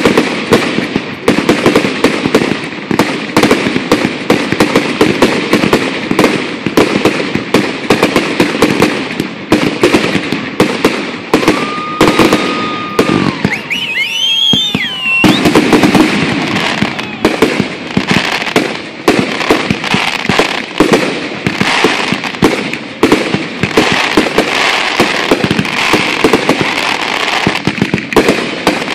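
Fireworks finale: a dense, rapid barrage of bangs and crackling. About halfway through, the barrage briefly lets up and high whistles glide up and down.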